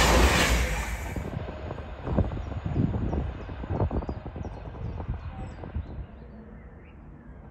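Class 390 Pendolino electric train rushing past close by at speed, cut off abruptly just over a second in. After that, a quieter distant train rumble with irregular knocks and clacks, and faint bird chirps.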